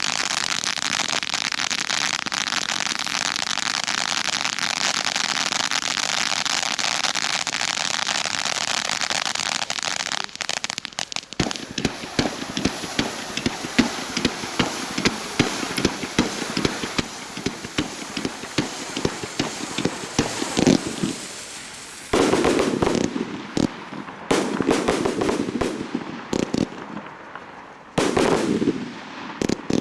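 Fireworks display: about ten seconds of dense, steady crackling hiss, then a quick stream of sharp bangs and crackles. From about twenty-two seconds in come heavier, louder bursts in rapid volleys.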